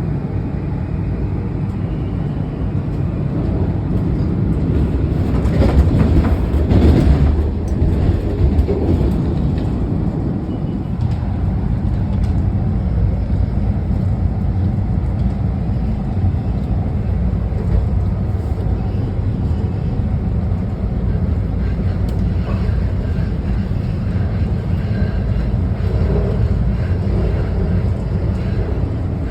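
Washington Metro train running between stations: a steady low rumble of the railcar on the track, swelling louder for a few seconds about six seconds in.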